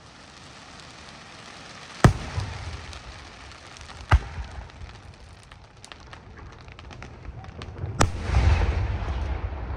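Aerial fireworks display: three sharp shell bursts about two seconds in, four seconds in and eight seconds in, with faint crackling between them. After the third burst comes a longer stretch of crackling and low rumble.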